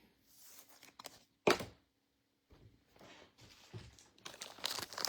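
Trading cards and plastic card sleeves being handled: a single sharp click about a second and a half in, a few faint ticks, then soft rustling and crinkling near the end.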